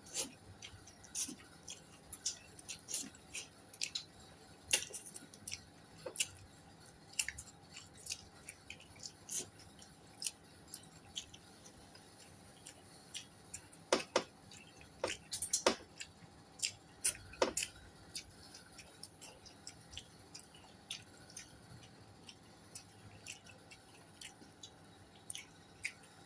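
A person chewing and eating at close range, with many irregular wet smacks and crackles; a louder cluster of them comes just past the middle.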